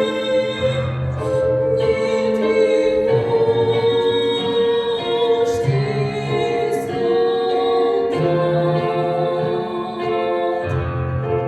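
A woman singing a slow song with instrumental accompaniment, moving through long held notes.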